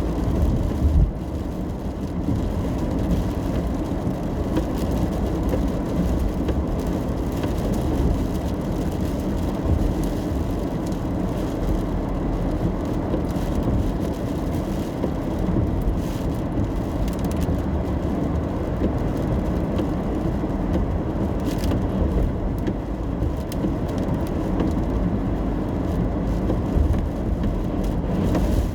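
Car cabin noise while driving in the rain: a steady low rumble of engine and tyres on wet road, with rain on the car.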